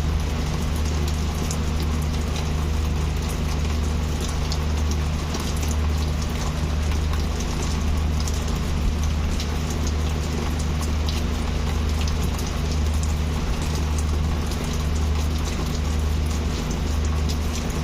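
Heavy rain falling steadily, a dense hiss with many individual drops striking a surface, over a steady low hum.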